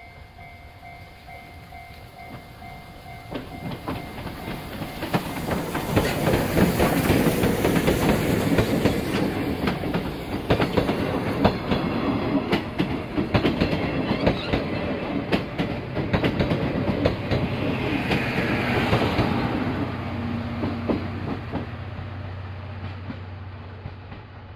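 Passenger train of old-style coaches passing close by: its rumble builds as it approaches, the wheels clack sharply over the rail joints as the coaches go past, and the sound fades away as the train recedes.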